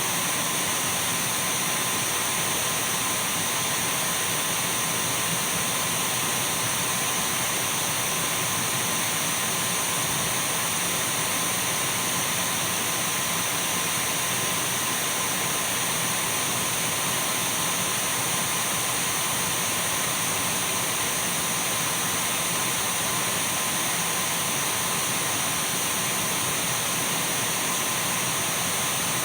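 Dyson V12 cordless stick vacuum running steadily: an even rush of air with a thin, high-pitched whine and a fainter mid-pitched tone, unchanging throughout.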